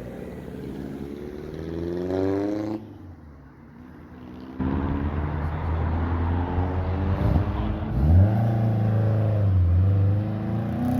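Car engines accelerating away: the first one's revs climb for about three seconds, then the sound cuts off abruptly. After a short lull a second, louder engine comes in suddenly, its pitch dips and rises again about eight seconds in, then holds at high revs.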